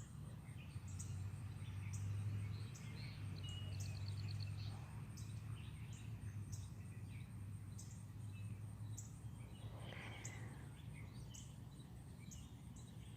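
Small songbirds chirping in scattered short calls, with a brief rapid trill a few seconds in, over a steady low hum that is strongest during the first few seconds.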